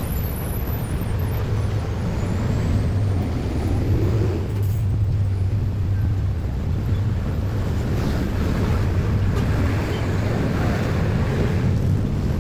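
Steady low rumble of heavy vehicles, with a hiss of noise rising in the last few seconds.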